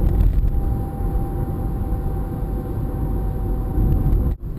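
Steady low rumble of a car heard from inside the cabin, with a faint steady hum above it; it cuts off abruptly just before the end.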